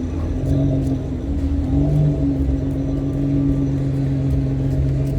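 A car engine running steadily at low revs, swelling briefly about two seconds in.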